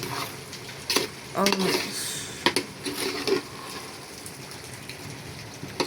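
Spaghetti cooked down in red palm oil sizzling in a pot as it is stirred, with a few sharp clicks of the spoon against the pot. The cooking water has all but boiled off, so the pot has gone from boiling to frying.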